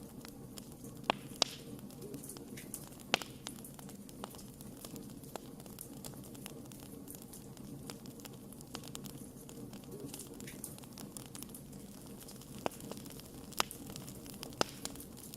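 Wood fire burning, with a steady low rumble and scattered sharp crackles and pops every second or so.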